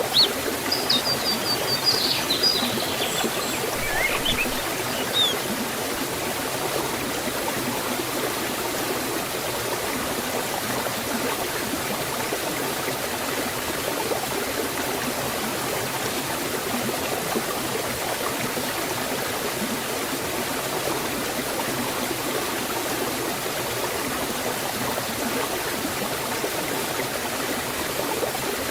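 Forest waterfall and stream flowing steadily, an even rushing of water. A bird chirps a few times in the first five seconds.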